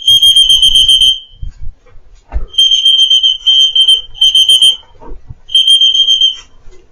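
Electronic racing-pigeon timing clock beeping at a steady high pitch: one long beep, then a run of shorter beeps and one more near the end. This is the clock registering a returning pigeon's ring as the bird enters the loft.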